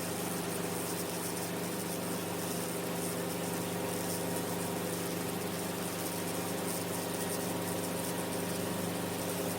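Enstrom F28F helicopter in flight, its piston engine and rotors making a steady drone heard from inside the cabin: a stack of even low hums under a constant hiss.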